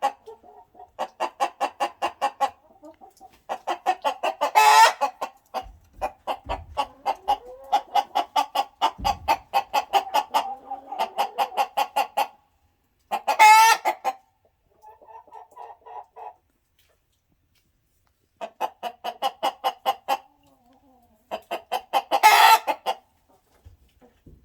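Ameraucana chicken clucking in long rapid runs, about five clucks a second. Three times a cluck run builds into a loud, drawn-out squawk.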